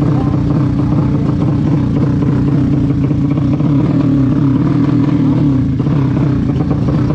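Vehicle engine running steadily and loudly at an even pitch, without revving up or down.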